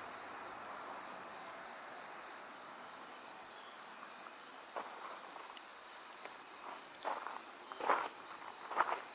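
Wood fire crackling in a steel fire pit, with a few sharper pops about seven, eight and nine seconds in, over a steady high chorus of insects.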